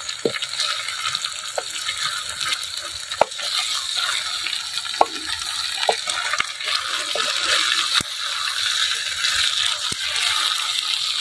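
Diced potatoes and spices frying with a steady sizzle in a clay pot, stirred with a wooden spoon that knocks and scrapes against the pot every second or two.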